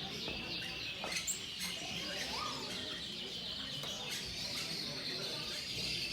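Many small cage birds chirping and twittering at once, a continuous overlapping chorus of short high chirps.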